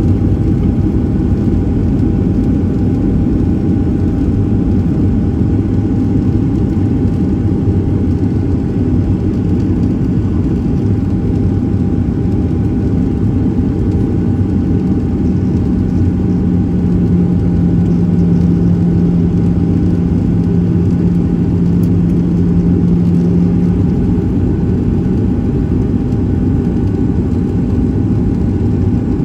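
Steady cabin noise aboard a Boeing 737-700 in flight: the rumble of its CFM56-7B engines and the airflow, with a constant faint hum. A lower drone comes in about halfway through and fades out a few seconds before the end.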